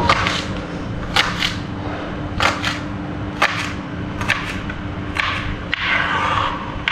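A knife chopping carrot and cluster beans on a cutting board: sharp, irregular knocks, often in quick pairs, about one or two a second.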